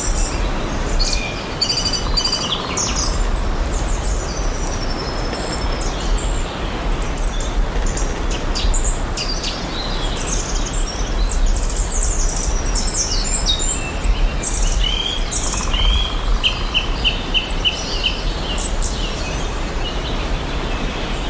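Several songbirds chirping and singing in a forest, with a quick run of repeated notes about three-quarters of the way through, over a steady rushing background hiss and low rumble.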